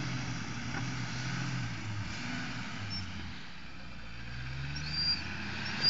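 Suzuki Samurai 4x4's engine running at a distance as it drives across the field, its note rising in the middle and again toward the end as the throttle opens.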